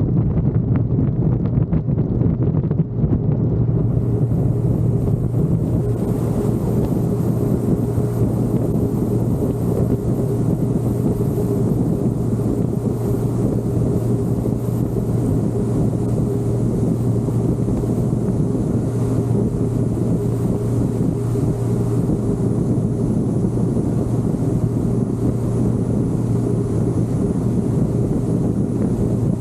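C6 Corvette Z06's big-cam LS7 V8 running steadily at a constant engine speed, with wind buffeting the camera's microphone.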